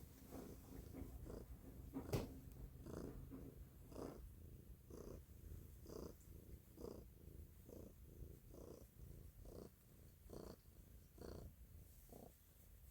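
Domestic cat purring close to the microphone, a low rumble that swells and fades about once a second with each breath. One sharp click about two seconds in.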